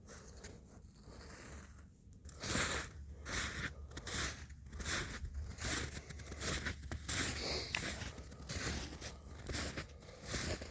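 Footsteps crunching through snow at a walking pace, about two steps a second, starting about two seconds in.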